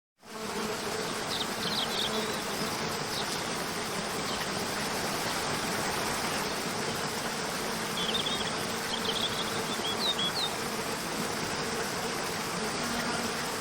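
Waterfall water rushing in a steady roar, fading in just after the start, with a few short high chirps about a second in and again around eight to ten seconds in.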